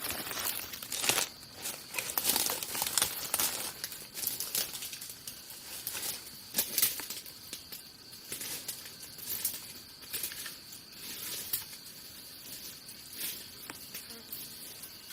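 Irregular rustling and crinkling with sharp crackles, busiest in the first few seconds and again about seven seconds in, over a faint steady high-pitched tone.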